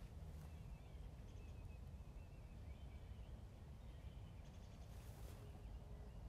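Faint calls of small birds: a series of short, high chirps over a low, steady outdoor rumble.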